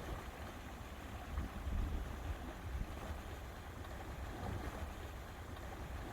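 Wind buffeting the microphone in irregular low gusts over a steady wash of lake water.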